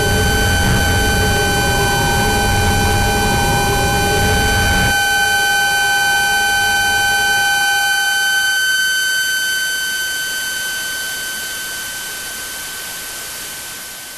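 Recreated sleep-paralysis soundscape: several steady high tones layered over a loud low rumble. The rumble cuts off suddenly about five seconds in, leaving the tones and a hiss, which thin out and fade toward the end.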